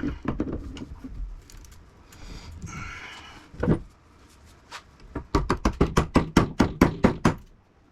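Hammer striking metal while breaking apart an air conditioner motor. A scraping sound comes first, then a single blow, then a quick run of about a dozen strikes, several a second, in the second half.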